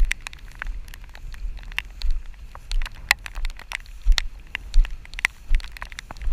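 Rain falling: drops tick irregularly and sharply close to the microphone, over a low rumble of wind buffeting the microphone.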